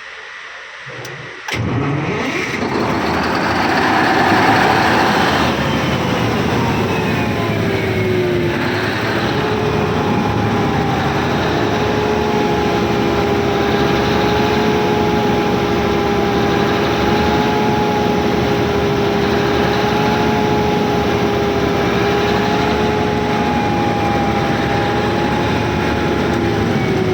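A 1050 kVA diesel generator engine starts about a second and a half in, catching suddenly and running up to speed. A whine falls and then settles into a steady tone as the engine runs steadily, and it begins to drop again near the end.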